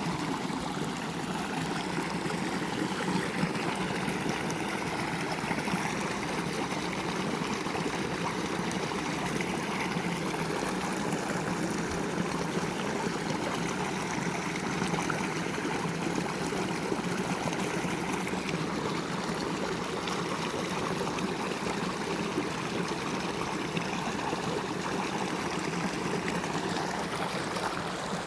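Steady rushing of running water, an even, unbroken flow.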